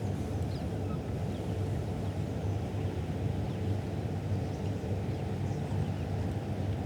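Riverside ambience on the tidal Thames: a steady low rumble, with faint short bird chirps now and then.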